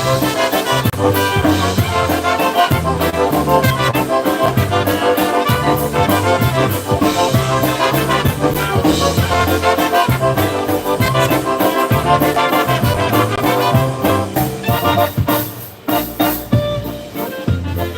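Live polka band playing an instrumental number with a steady beat, with a brief dip in loudness near the end.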